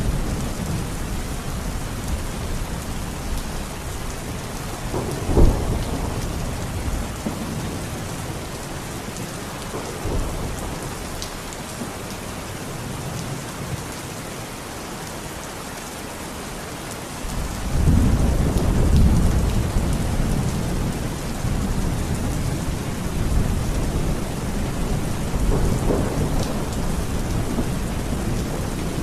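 Steady rain in a thunderstorm. A sharp clap of thunder comes about five seconds in, and a long low rumble of thunder starts a little past halfway and rolls on for several seconds.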